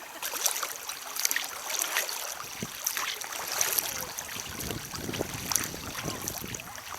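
Water splashing and sloshing around a kayak on the river, with frequent irregular splashes.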